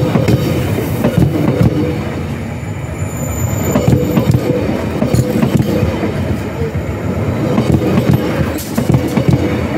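A train passing over the rail: steel wheels rolling with a loud, steady rumble and a rapid, irregular clatter.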